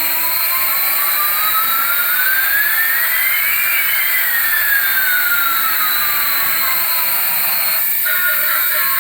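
Jet engine noise: a steady rushing hiss with a whine that rises for about four seconds and then falls back down. It stops about a second before the end, as music returns.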